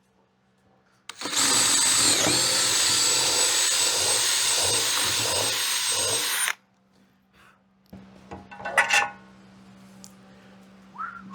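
Power drill boring a hole through soft wood with a larger bit, running steadily for about five seconds with a brief dip in pitch as the bit bites, then stopping. A few short knocks follow, and whistling starts at the very end.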